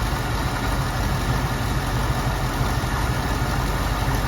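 1976 Jeep J10 pickup's engine idling steadily, running again after sitting 13 years.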